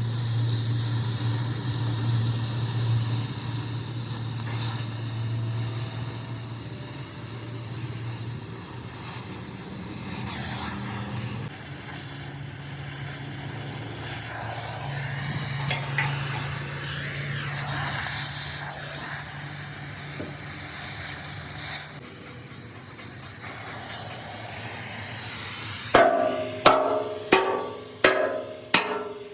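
A steady machine hum with hiss. Near the end come about six sharp, ringing hammer blows on steel, roughly half a second apart.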